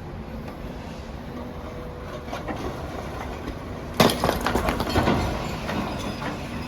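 Demolition excavator's diesel engine running steadily, then about four seconds in a sudden loud crash of falling masonry and rubble, clattering on for a second or two with a second smaller crash.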